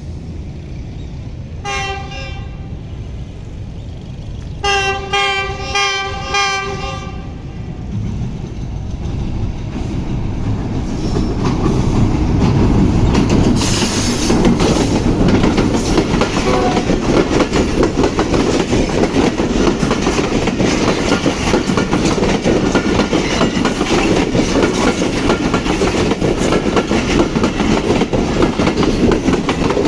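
Pakistan Express locomotive horn giving one short blast, then a quick string of about five short blasts. The train then comes through: a rumble that grows louder, then a steady, loud clickety-clack of the coaches' wheels on the rails.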